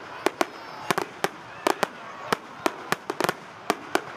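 Fireworks going off in rapid, irregular succession: a string of sharp bangs and cracks, about four a second.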